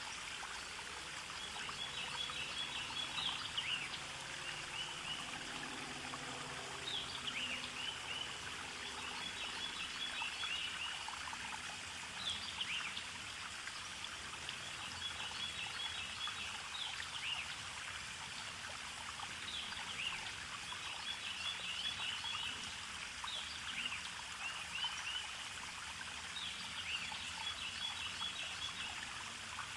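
Steady running water of a stream, with a songbird repeating the same short song every few seconds: a quick falling note followed by a rapid run of high notes.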